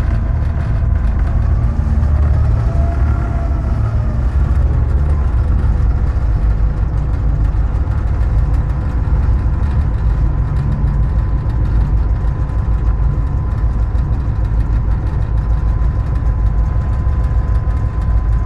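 EMD GP38-2 diesel locomotive running, heard inside its cab: a loud, steady, low rumble of the 16-cylinder 645 prime mover along with wheel and rail noise. A faint whine rises and falls in the first few seconds.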